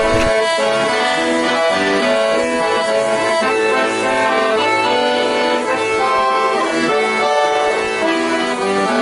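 Accordion music playing a lively tune.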